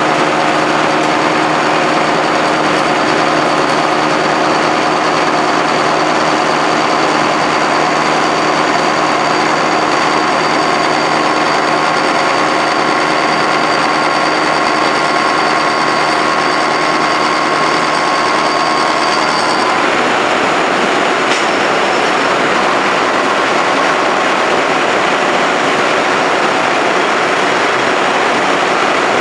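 Heckert FSS315 knee-type milling machine running under power, its gearbox giving a steady whine of several even tones over a mechanical hum. About twenty seconds in the tones stop and an even mechanical noise carries on at the same loudness.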